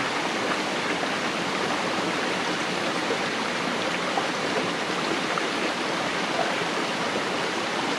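Stream water rushing, a steady even rush.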